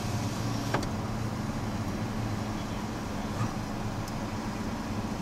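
Car engine idling steadily, heard from inside the cabin, with a single click about a second in.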